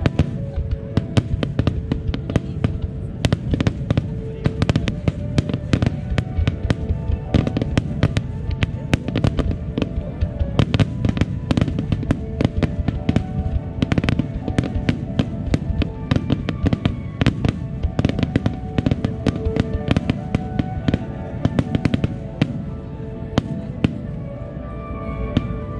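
Starmine fireworks barrage: a dense, rapid string of aerial shell bangs and crackles, with music playing underneath. The bursts thin out near the end.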